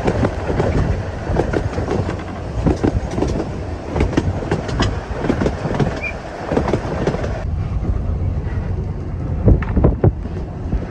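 Train running on the rails: a steady low rumble with irregular clicks and knocks from the wheels on the track. The higher hiss falls away suddenly about seven and a half seconds in.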